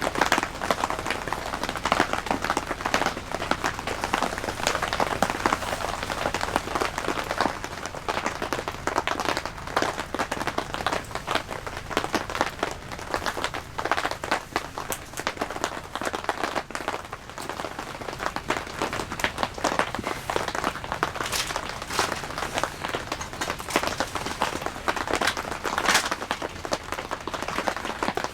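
Steady rain pattering, a dense run of irregular drop impacts.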